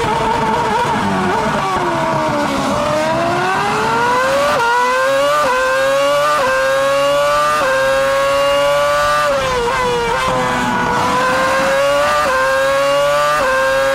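Onboard sound of a Ferrari 248 F1's 2.4-litre V8 Formula 1 engine at racing speed. The engine note falls as the car brakes and shifts down, then climbs through four quick upshifts. It falls again about ten seconds in and climbs through two more upshifts near the end.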